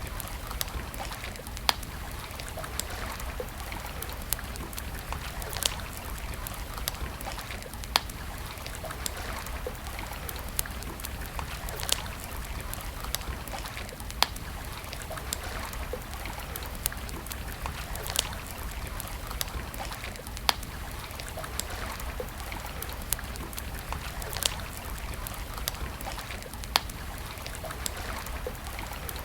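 Wood campfire crackling, with sharp pops at irregular moments every second or so, over the steady rush of running water.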